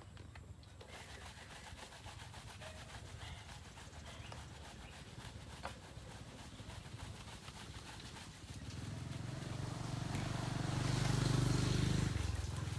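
A small engine running with a low, even beat, growing clearly louder from about nine seconds in and easing off just before the end.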